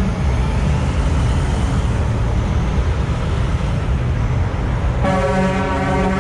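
Heavy trucks rolling past in convoy with a deep engine rumble, then a truck's air horn starts blowing a steady chord about five seconds in.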